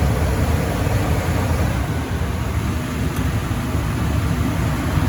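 Residential furnace blower running: a steady low rumble with an even rush of air noise.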